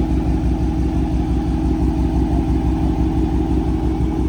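A 2020 Dodge Charger R/T's 5.7-litre Hemi V8 idling steadily, with an even low pulse.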